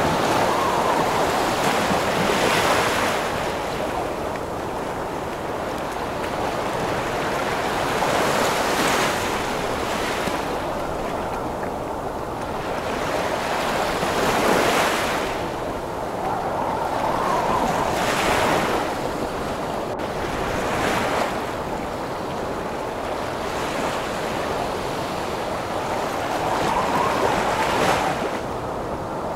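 Heavy ocean waves crashing in repeated surges every few seconds, under strong gusting wind with a moaning howl.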